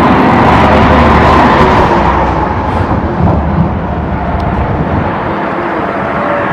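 Loud, steady rushing noise, heaviest in the low end: highway traffic on the bridge mixed with wind on the microphone.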